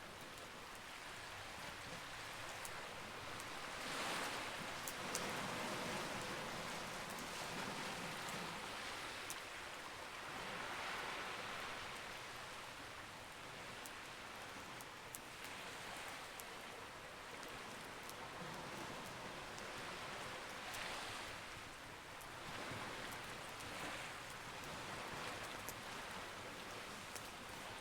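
Campfire crackling with scattered small sharp pops, over a steady wash of sea waves that swells and falls back every few seconds.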